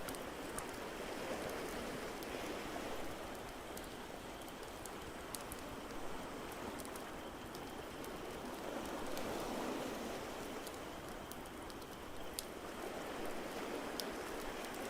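Ocean waves washing in, the noise swelling and easing every few seconds, with scattered sharp crackles of a wood fire over it.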